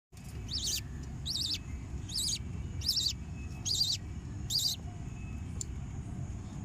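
A budgerigar calls six times in a row, each a short, high, warbling chirp, about one every 0.8 seconds, then stops. A steady low hum runs underneath.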